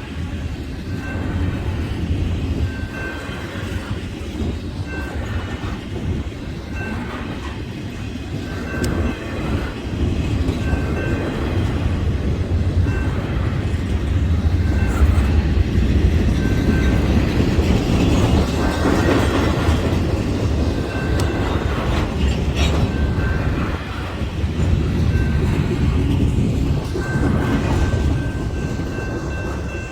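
BNSF freight train's cars rushing past at speed, a steady heavy rumble with wheels clacking over the rail joints. A short high ding repeats about once a second throughout.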